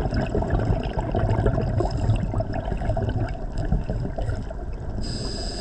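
Scuba diver's exhaled bubbles rumbling and gurgling from the regulator, heard underwater with many small crackles. About five seconds in, a steady high hiss with a thin ringing tone starts: air flowing through the regulator as the diver breathes in.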